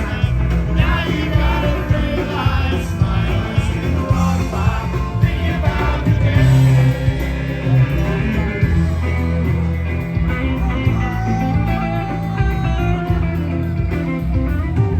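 Live rock band playing an instrumental jam, with a wavering electric guitar lead over the full band.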